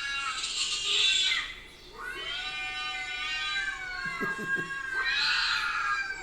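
Cat yowling in long, drawn-out caterwauls that rise and fall in pitch, three calls with short breaks between them.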